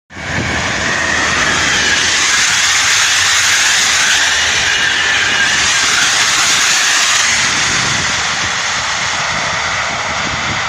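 PKP Intercity passenger train passing close by at speed: a loud, steady rush and rumble of wheels on the rails, easing slightly near the end.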